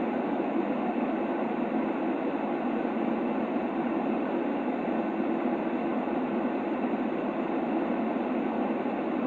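Steady white-noise sleep sound with no change, weighted toward the low middle and cut off above the highs, so it sounds like a muffled, rushing hiss rather than a bright one.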